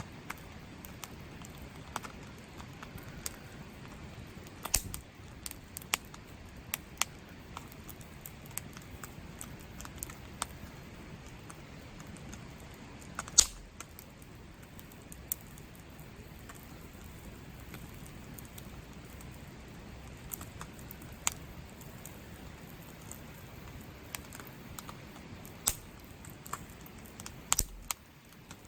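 Steady rain hiss with scattered, irregular sharp taps and clicks, the loudest one about halfway through.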